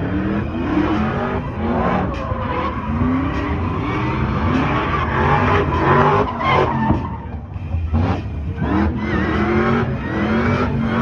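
Car engines revving up again and again in short rising sweeps over a dense steady wash of motor noise.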